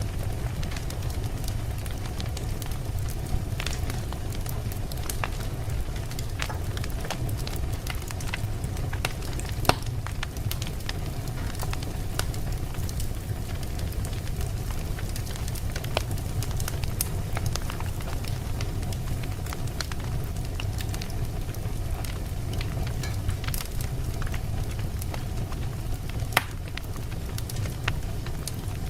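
Wood campfire burning: a steady low rumble with irregular sharp crackles and pops of burning wood, one louder pop just under ten seconds in.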